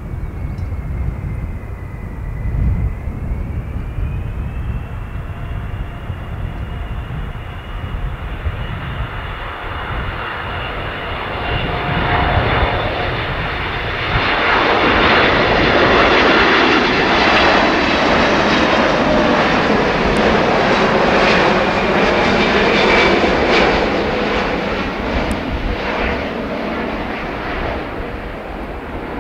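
Boeing 777-200 jet airliner's twin turbofan engines: a high whine that rises in pitch a few seconds in, then engine noise that builds to a loud peak about halfway through as the aircraft passes, and slowly fades.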